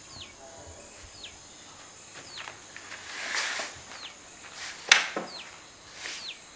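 A bird's short chirps, each falling in pitch, repeat about once a second over a steady faint high hiss. There is a rustle about three seconds in and a sharp knock, the loudest sound, about five seconds in.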